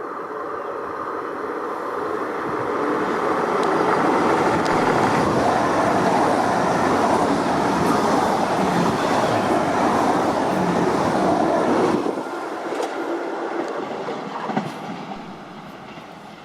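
A train passing by on the tracks, with some clacking of the wheels. It builds up over the first few seconds, stays loud for about eight seconds, drops off suddenly about twelve seconds in, then fades away.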